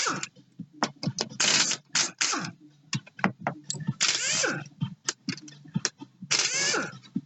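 Irregular sharp metallic clicks and clinks of hand tools and fasteners on engine parts, during disassembly of a Yamaha XLT jet ski engine, with voices talking in between.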